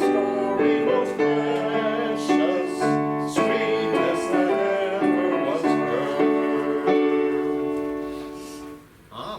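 Hymn music on a keyboard, with held chords that die away near the end as the hymn closes.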